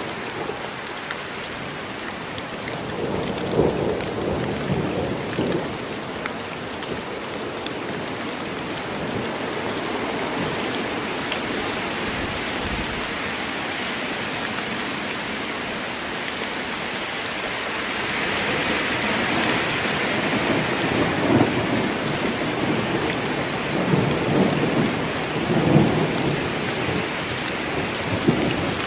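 Steady heavy rain falling in a forest, growing heavier past the middle, with thunder rumbling a few seconds in and again several times in the last third.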